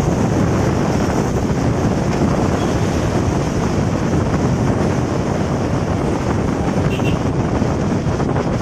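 Wind rushing steadily over the microphone of a rider on a moving motorcycle, a loud even rush with the bike's running noise mixed in.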